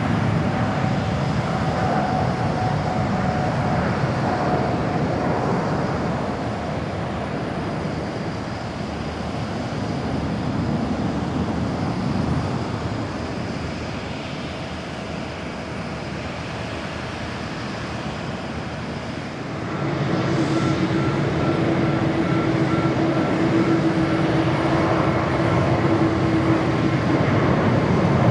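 Jet engine noise of an Airbus A350-900 taking off, its Rolls-Royce Trent XWB engines easing slightly in level. About two thirds of the way through it changes abruptly to a louder Boeing 767-300ER taking off, its engines running with steady whining tones.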